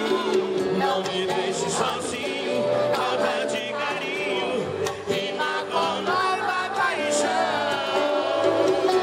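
Live sertanejo music from a concert stage, with the crowd singing along in chorus, heard from within the audience.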